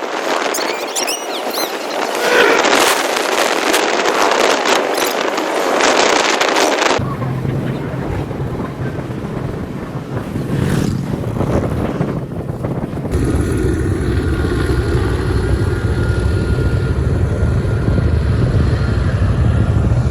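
Wind rushing over the microphone of a moving vehicle, then an abrupt change about seven seconds in to a steady low engine and road drone that carries on to the end.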